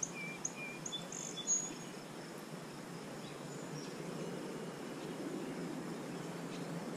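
A few short, high bird chirps in the first couple of seconds, over a faint, steady outdoor hiss that continues after them.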